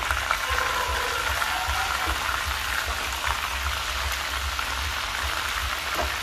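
Pieces of field rat frying with lemongrass and chili in hot oil in a frying pan, with a steady sizzle.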